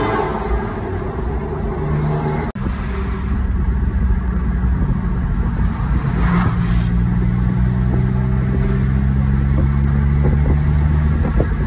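2008 Porsche 911 Carrera S flat-six engine running steadily under way, heard from inside the cabin along with tyre and road noise. The sound briefly cuts out about two and a half seconds in.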